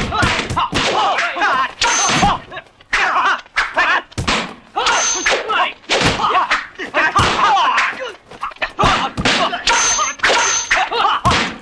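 Kung fu film fight sound effects: a rapid run of wooden staff thwacks and hits against round shields, mixed with the fighters' shouts and grunts.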